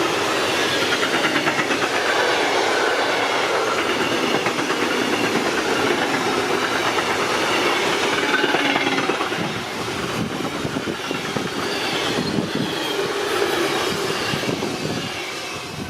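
Timber freight train hauled by a DB class 152 electric locomotive rolling past, with wagon wheels clattering on the rails and faint squeals. The sound eases a little about ten seconds in and tails off at the very end.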